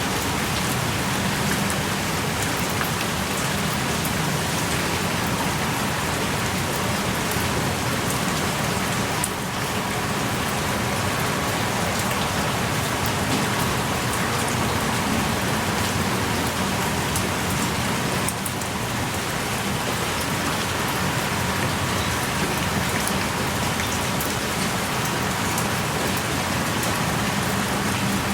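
Steady heavy rain, with many single drops ticking close by.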